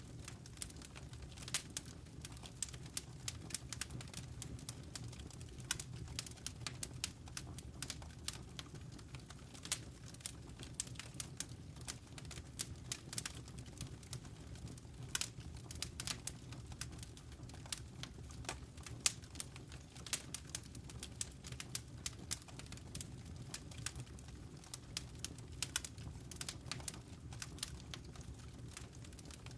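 Wood fire in a fireplace crackling: irregular sharp snaps and pops, several a second at times, over a steady low rumble of burning.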